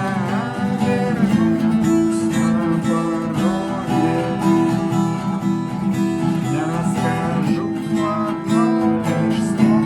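Acoustic guitar strummed in a steady rhythm, the chords punctuated by short percussive muted strokes: the 'knock' (стук) strumming technique.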